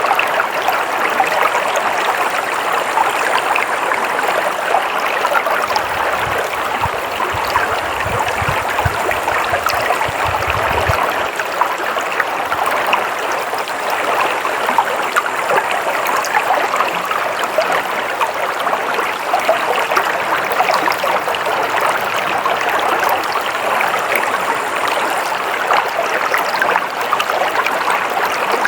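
Stream water flowing steadily, with a low rumble underneath for a few seconds in the middle.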